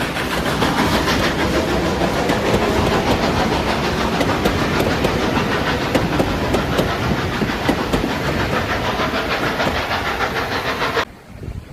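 A train running past at close range, its wheels clattering over the rail joints in a dense stream of clicks. The sound cuts off abruptly near the end.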